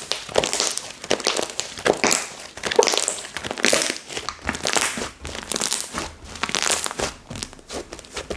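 Hands squishing, pressing and stretching soft slime, giving a dense run of irregular crackling, sticky clicks and squishes with no steady rhythm.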